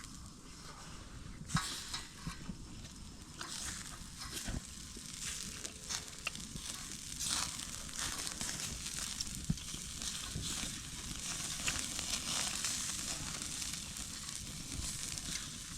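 Meat sizzling on a grill over a wood fire, a steady hiss with scattered pops and crackles.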